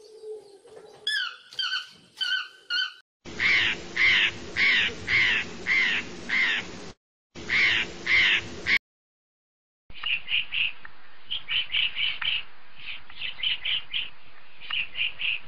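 Three birds in turn. A yellow-throated toucan gives bending, yelping calls for the first three seconds. A blue jay then calls a loud, harsh, repeated 'jay' in two runs to about nine seconds, and after a second of silence a young woodpecker gives a run of short, high calls.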